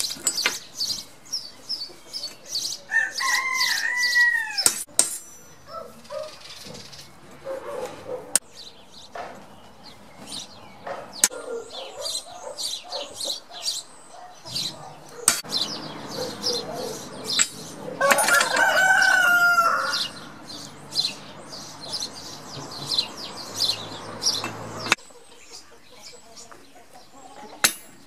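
Birds calling: many short high chirps, with two longer, louder calls a few seconds in and about two-thirds of the way through. A few sharp clicks are heard, and a steady background noise stops suddenly near the end.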